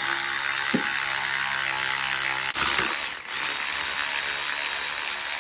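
Impact wrench hammering on the crankshaft pulley bolt, in one run of about two and a half seconds, a brief break, then a second long run.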